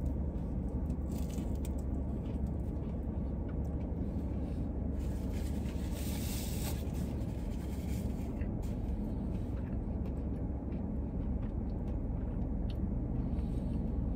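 Steady low rumble inside a parked car's cabin with the engine idling, while a man chews a bite of cheeseburger; faint clicks and a brief rustle about halfway through.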